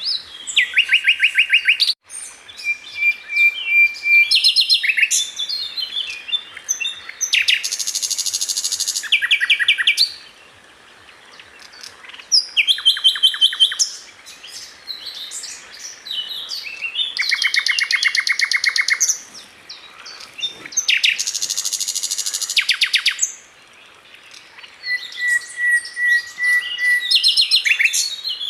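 Sikatan londo flycatcher singing: a string of loud, varied phrases made of fast trills of rapidly repeated notes, with a few steady held whistles and short pauses between phrases.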